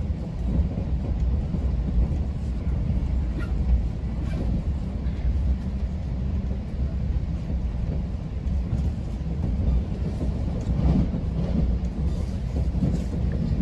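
Steady low rumble inside a GO Transit bilevel passenger coach as the train runs along the track between stations.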